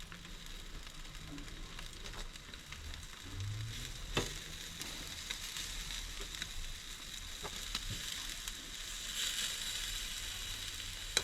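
Jerk chicken legs sizzling on a barbecue grill over a fire: a steady hiss with a few sharp clicks, the clearest about four seconds in.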